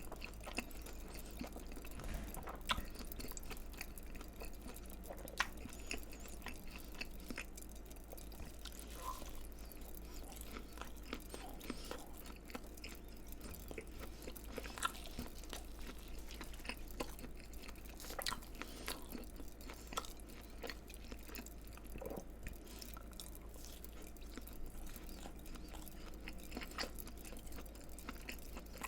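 Close-miked eating: steady chewing with scattered crisp crunches and bites of fried food.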